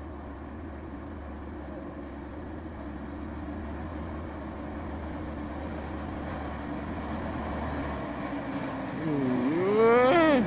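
Diesel truck engine running under load, growing steadily louder as the truck comes closer on the climb. Near the end a louder pitched call dips and rises in pitch over it.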